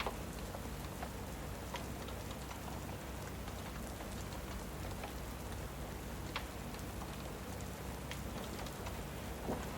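Steady rain falling, with a few scattered sharp pops; the loudest comes near the end.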